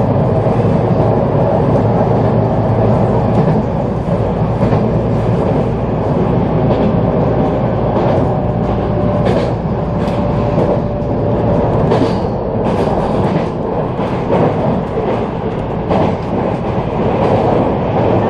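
Local electric train of the JR San'in Main Line running at speed, heard from inside the carriage: a steady rumble of wheels on rail broken by irregular clicks as the wheels cross rail joints. A faint steady high tone holds for a few seconds near the middle.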